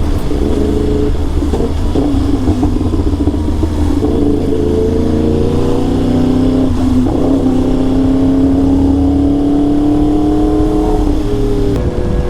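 Sport motorcycle engine under way, its note climbing steadily as the bike accelerates, with a brief break about seven seconds in like a gear change and another change in pitch near the end.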